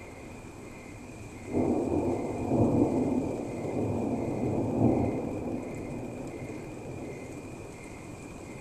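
A thunderclap breaks in sharply about a second and a half in and rolls on as a deep rumble with two swells, then slowly dies away. Steady rain hisses underneath.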